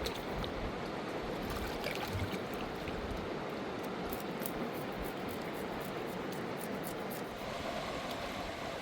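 Fast-flowing river rushing steadily: a dense, even noise of running water.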